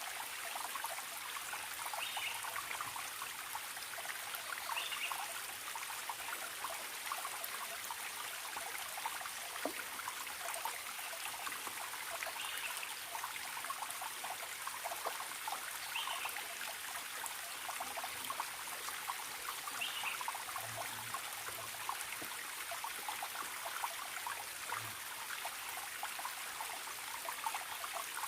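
A forest stream trickling and splashing steadily, with a bird giving a short call five times, a few seconds apart.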